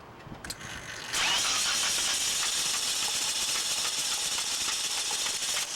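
Car's starter motor cranking the engine, starting about a second in and stopping suddenly near the end. The engine is being turned over to check for spark at the number 2 cylinder's plug wire with an inline spark tester.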